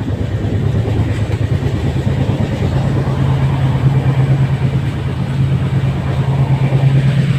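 Steady low mechanical hum over a rumble, typical of a train carriage's running noise; the hum grows a little stronger about halfway through.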